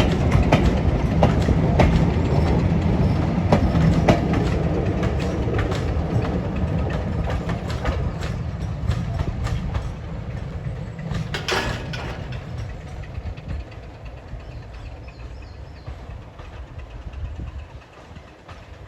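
Heritage diesel-hauled train passing and moving away: a deep engine rumble with wheels clicking over rail joints, fading steadily. A brief sharp sound comes just past the middle.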